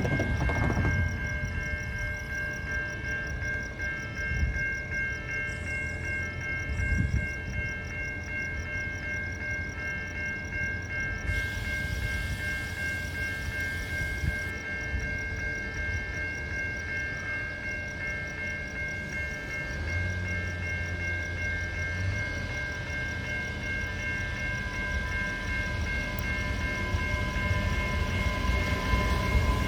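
A train running, with a steady high-pitched whine of two held tones over a low rumble. A hiss joins for about three seconds around twelve seconds in, and the sound grows louder near the end.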